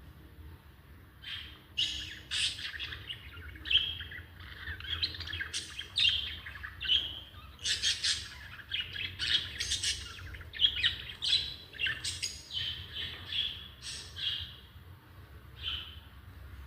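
Lovebirds chirping and squawking in a rapid, shrill chatter of short calls that come thick and fast, then thin out near the end.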